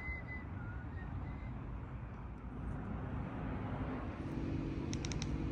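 Low, steady rumble of a vehicle engine running, with a faint steady hum coming in about four seconds in.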